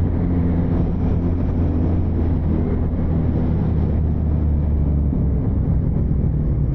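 Motorcycle engine running at a steady road speed, with road noise. Its pitch drops slightly about five seconds in.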